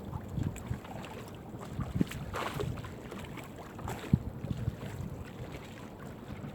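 Wind buffeting the microphone on a small fishing boat, with water sloshing and a few sharp knocks against the hull as a crab gillnet is hauled aboard.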